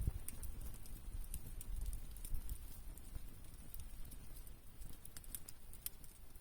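Wood campfire crackling, with irregular small pops and snaps over a low steady rumble.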